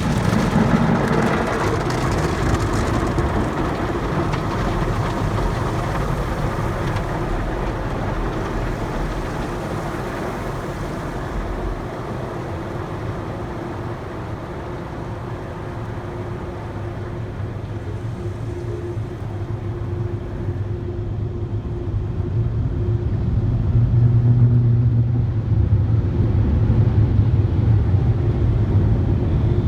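Ryko Rocket conveyor car wash tunnel equipment running with a steady whooshing noise and a constant hum. A deeper hum swells about three-quarters of the way through.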